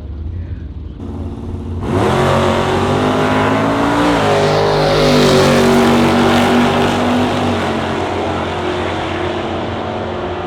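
V8 drag car launching at full throttle about two seconds in, its engine climbing in pitch with two upshifts as it pulls away down the strip. The engine fades slowly near the end.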